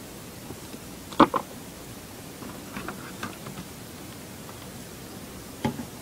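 Sharp clicks and light taps of ASUS A43SA laptop parts being handled and fitted: a loud double click about a second in, a few softer ticks around three seconds, and another click near the end, over a steady hiss.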